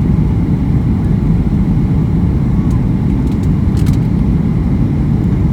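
Steady low rumble inside the passenger cabin of a Boeing 737-800, the noise of its engines and the airflow past the fuselage, with a few faint clicks about three to four seconds in.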